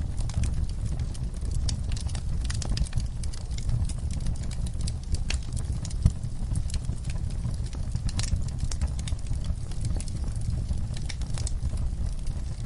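Wood fire in a fireplace crackling, with scattered sharp pops over a low steady rumble; one louder pop about six seconds in.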